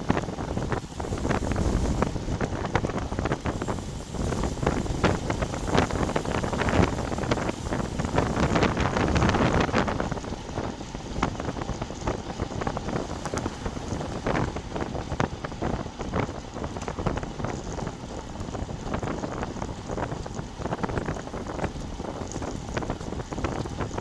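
Wind buffeting the microphone of a bike-mounted action camera while riding, a rough crackling rumble mixed with road noise. It is heaviest about five to ten seconds in, then eases somewhat.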